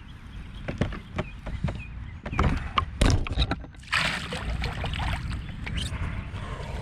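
Water splashing and sloshing beside a kayak as a hooked bass is brought in and landed, among scattered sharp clicks and knocks; the loudest splashes come about three and four seconds in.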